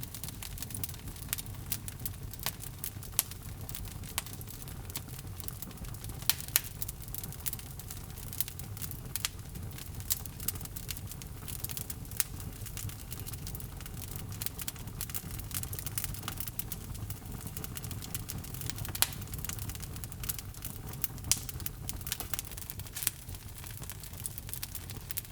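Wood logs burning in a fireplace: a steady low rumble of the flames under frequent irregular sharp crackles and pops.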